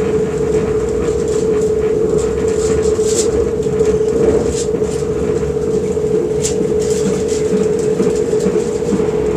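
Passenger train running, heard from inside the carriage: a steady rumble with a constant hum, and a few sharp clicks.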